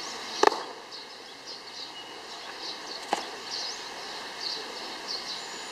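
Small birds chirping over and over against a steady outdoor background, with two sharp knocks, one under a second in and another about three seconds in.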